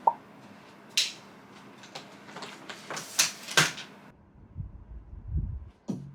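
Several sharp knocks and clacks of objects being handled, over a steady hiss; a little after halfway it cuts to a low rumble, and background music with a beat starts near the end.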